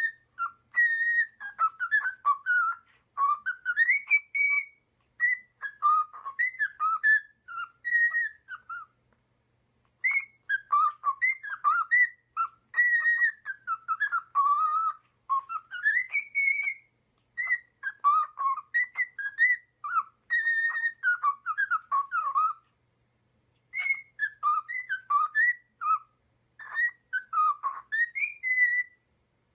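A pet bird whistling in quick phrases of short, rising and falling whistled notes, with a couple of brief pauses.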